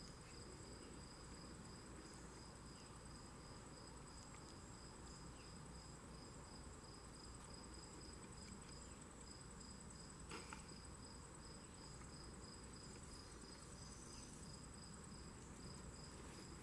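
Faint outdoor insect chorus: two steady high-pitched trills, one of them pulsing, run on unbroken. A single soft tap about ten seconds in.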